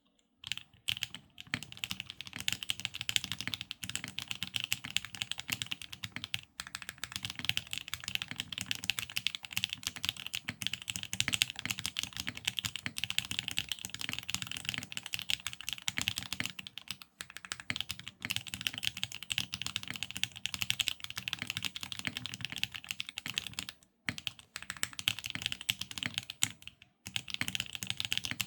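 Fast, continuous typing on a Frog mini custom mechanical keyboard with an aluminium plate, HMX Cheese switches and Resonance R3 keycaps, the keystrokes clacking in quick runs. There are a few short pauses along the way.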